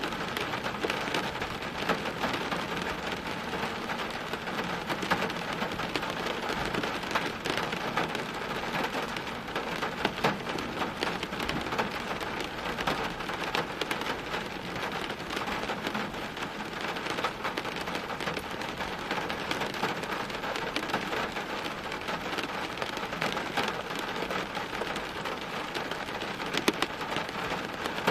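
Steady rain falling, with many sharp individual drop hits on a hard surface over a constant hiss.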